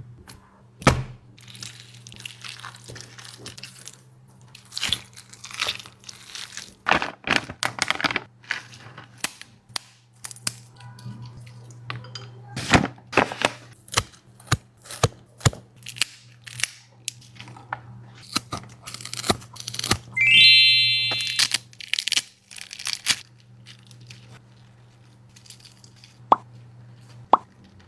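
A dog eating, with irregular crunches and sharp chewing clicks over a faint steady low hum. A brief electronic sound effect chimes about two-thirds of the way through.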